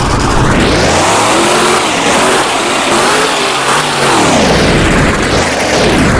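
Monster truck's supercharged V8 revving hard, its pitch rising and falling repeatedly as the throttle is worked.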